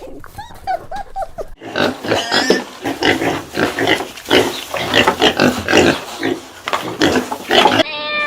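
Pigs grunting and squealing in a quick run of short calls. It is preceded by a second or so of brief high whining calls.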